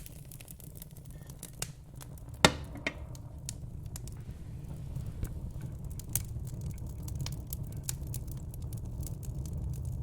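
Fire crackling: irregular snaps and pops, one sharp pop about two and a half seconds in, over a steady low rumble.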